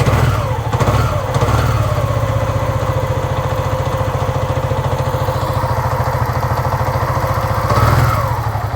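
2007 Hyosung GV650 Aquila's V-twin engine idling fast on choke after a cold start, blipped a few times in the first second and a half and once more near the end, steady in between.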